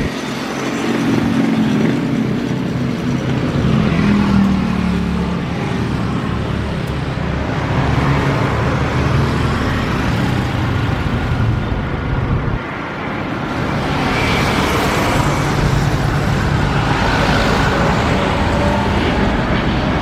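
Loud, steady roar of jet airliner engines, with a falling tone in the first few seconds and a faint whine coming through in the second half.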